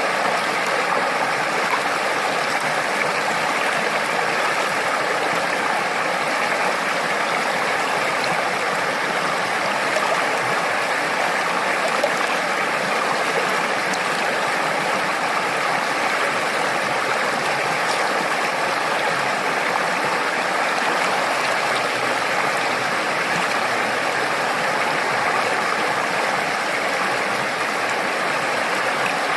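A stream of water running steadily over rocks, a continuous even rush with no breaks.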